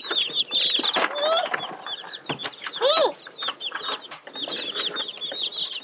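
A brood of Cornish Cross meat chicks peeping nonstop, many short high chirps overlapping, with scattered light knocks and rustles in between.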